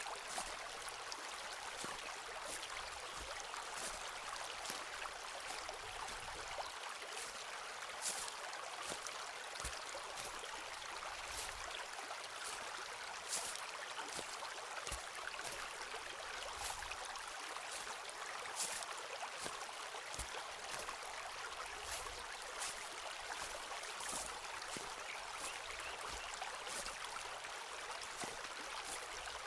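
Footsteps walking through a forest, with scattered small crackles and clicks from the forest floor and soft low thuds, over a steady rushing hiss.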